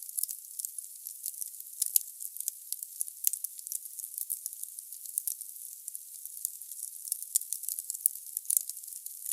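Wood fire burning in a fireplace: irregular crackling and popping of the burning logs over a steady hiss.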